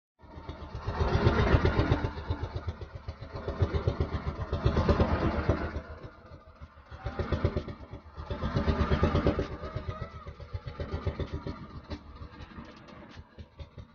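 A small engine running with a rapid pulsing beat, swelling louder and fading back three times. It starts and stops abruptly.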